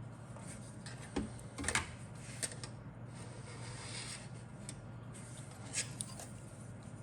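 Rubbing and scraping of objects being handled, with a few sharp clicks: one about a second in, a cluster near two seconds, and another near six seconds. A steady low hum runs underneath.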